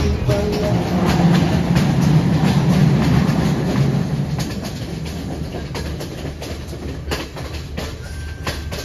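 Passenger train running along the track, heard from the carriage: a steady rumble of wheels and rushing air, louder for the first few seconds, then a run of sharp wheel clicks over the rail joints. Music comes back in near the end.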